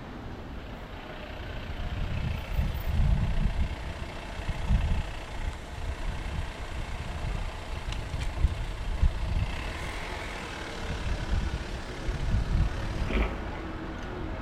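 Wind buffeting the microphone of a bike-mounted action camera in uneven gusts while riding, over the steady hiss of city road traffic.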